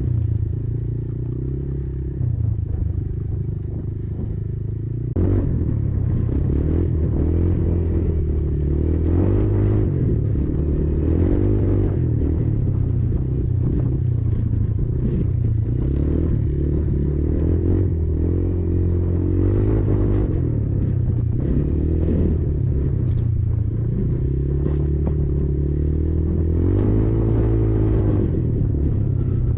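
Kymco Maxxer 300 quad's engine running on a trail ride, its pitch rising and falling as the throttle opens and closes, getting louder about five seconds in, with scattered knocks and rattles from the machine over rough ground.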